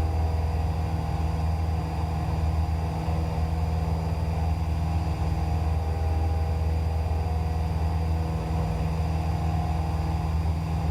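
Cessna 172's piston engine and propeller droning steadily at climb power, heard from inside the cabin.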